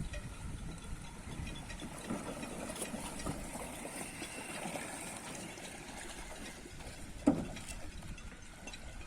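Small sailing dinghy's gear clicking and knocking over a low wind rumble, with one louder knock about seven seconds in.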